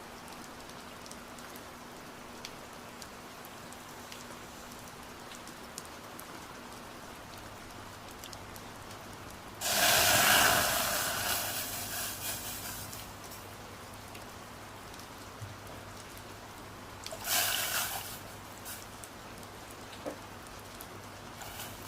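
Steady rain pattering. About ten seconds in, a much louder rushing sound starts suddenly and fades over about three seconds; a shorter one comes about seven seconds later.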